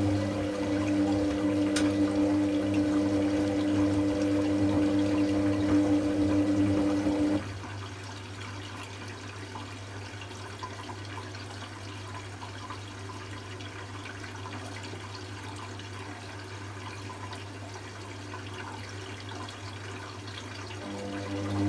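Hoover Classica 1100 AC164 washing machine in its rinse cycle: the drum motor hums steadily with water sloshing, then stops abruptly about seven seconds in, leaving softer running-water noise, and starts up again near the end, the tumble-and-pause rhythm of a rinse.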